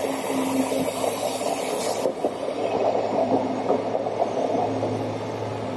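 Passenger coaches rolling past on the rails with a steady rumble, pushed by an ÖBB class 2016 Hercules diesel-electric locomotive whose low engine hum grows louder near the end as the loco comes closer.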